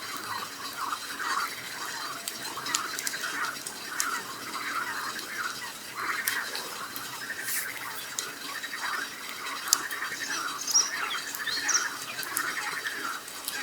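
A chorus of frogs croaking densely and continuously, with the sharp clicks of a wood campfire crackling over it. A few short high bird chirps come in near the end.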